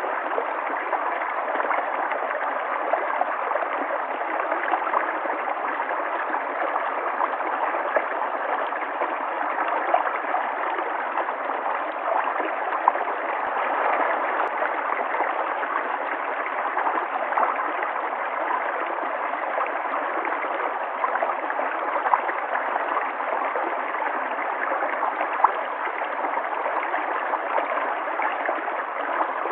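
River water flowing steadily, a continuous rushing with small splashes and gurgles scattered through.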